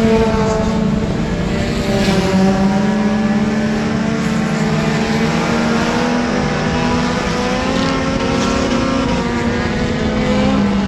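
Front-wheel-drive dirt-track race car's engine running hard under load, its pitch dipping briefly about two seconds in, then climbing back and holding high.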